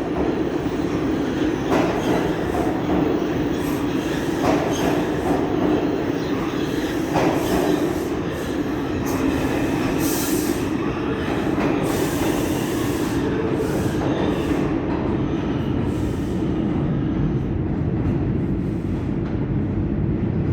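New York City subway train running in the station with a steady rumble. Its wheels click over rail joints a few times in the first eight seconds, and there are brief high-pitched squeals or hisses about ten and twelve seconds in.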